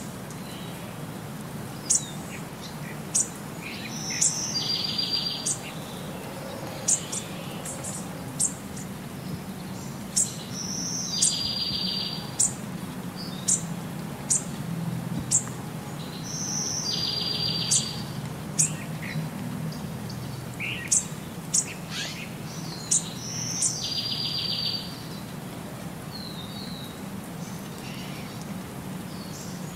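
Birds chirping, with short sharp high chirps scattered throughout and a buzzy trill about every six seconds, over a low steady hum.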